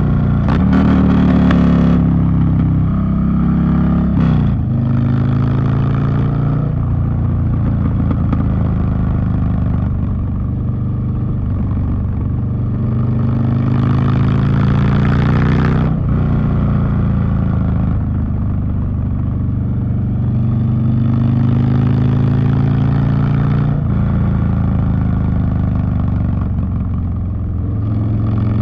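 Harley-Davidson Street Bob's V-twin running loud through a Two Brothers Racing 2-into-1 exhaust on the move. The engine pitch climbs under throttle several times and drops back, with sudden drops about two and four seconds in.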